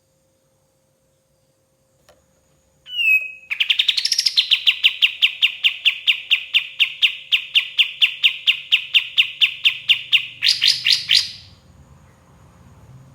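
Sooty-headed bulbul (kapas tembak) calling: after about three seconds of silence, one note, then a fast, even run of sharp repeated notes, about four a second, for some seven seconds, ending in a quicker, higher flurry.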